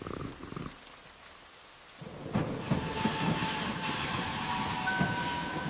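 Steady light rain with a brief low rumble at the start, then a loud roll of thunder building about two seconds in and rumbling on.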